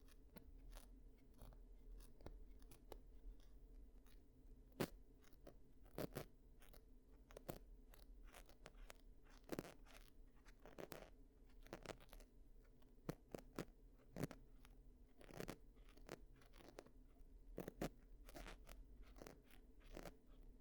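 Ear-cleaning sounds for ASMR: irregular soft crackles and scratches, about one to three a second, as a cleaning tool works against the microphone, over a faint low hum.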